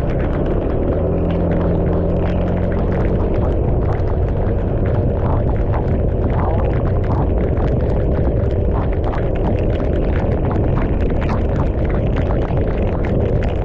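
Motorcycle riding in heavy rain: wind rumbling on the microphone over a steady engine note, with raindrops spattering in quick, irregular ticks.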